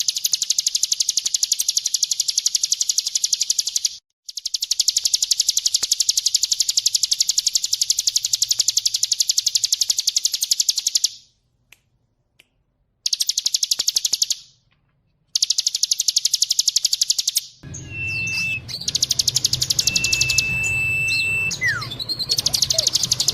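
Ciblek gunung (a mountain prinia) singing: long bouts of very fast, high, rattling repeated notes, broken by short pauses. About two-thirds of the way through, the trill breaks off for a few seconds. Against a low rumble there are two short steady high whistles and scattered chirps, and then the fast trill resumes near the end.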